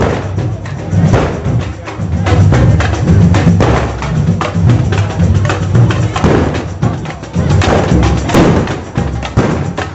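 Drums of a marching band in a street procession, beating loud, rapid strikes over a heavy low pulse.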